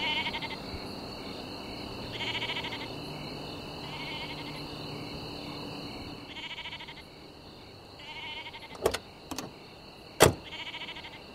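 A sheep bleating over and over, one call about every two seconds, over a low steady hum. Near the end come a few sharp clicks and one loud knock, a car door being opened.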